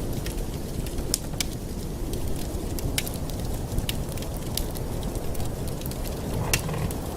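Wood fire in a fireplace crackling, with sharp pops every second or so over a steady low roar of the flames.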